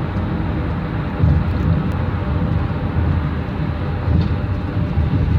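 Steady road noise and low rumble of a car driving on a highway, heard from inside the moving vehicle.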